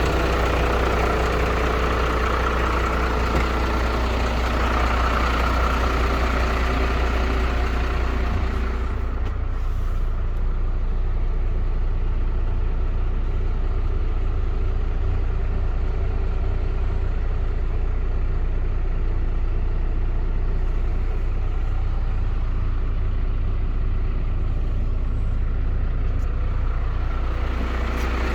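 MAN 12.250 truck's diesel engine running steadily. A brighter, hissing noise on top of it over the first nine seconds drops away, leaving the low engine note.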